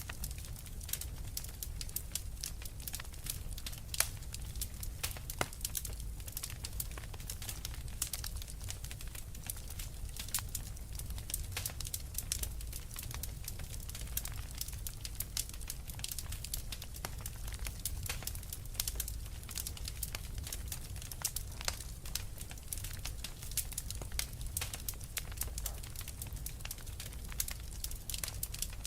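Wood fire crackling steadily in a fireplace: many sharp pops and snaps over a low, even rumble of the flames.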